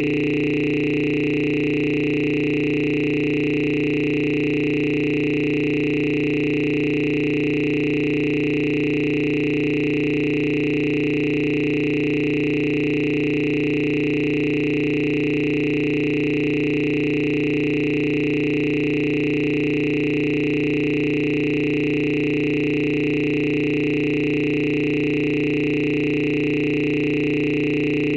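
A steady electronic drone of several held tones, unchanging in pitch and loudness.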